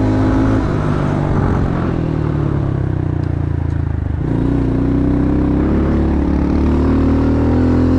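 A vehicle engine running hard: its pitch falls as it slows over the first four seconds, then after a sudden change about four seconds in it climbs steadily as the vehicle accelerates.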